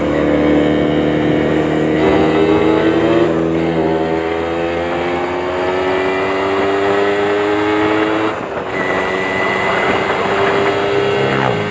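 Yamaha Champ two-stroke motorcycle engine running through its exhaust, the note climbing slowly in pitch, dropping about four seconds in, climbing again and dropping once more near eight and a half seconds.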